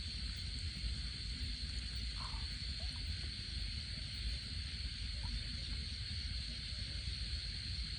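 Outdoor ambience: a steady high-pitched hiss over a low, unsteady wind rumble, with a few faint short chirps about two seconds in.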